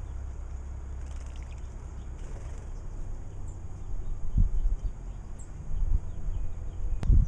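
Faint short chirps of birds over a steady low rumble. The rumble swells into loud low gusts in the second half, with one sharp click shortly before the end.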